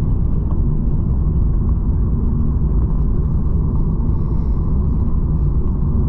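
Steady low rumble of a small vehicle engine running at an even pace while riding along, with no change in speed.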